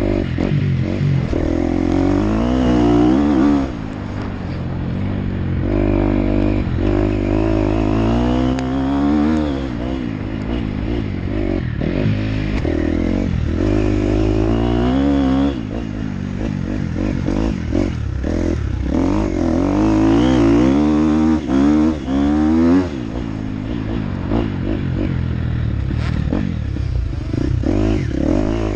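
Motocross dirt bike engine revving up and down repeatedly as it is ridden, the pitch climbing and dropping every few seconds through throttle and gear changes, with short knocks and clatter now and then.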